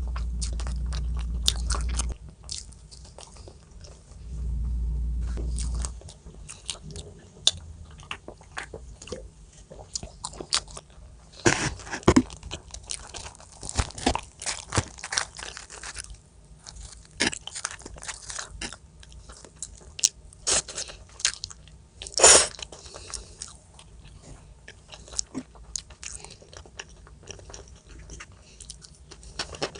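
Close-up eating sounds: biting and chewing crunchy food, with many sharp crackles and clicks. A low steady rumble runs for the first two seconds and again from about four to six seconds in.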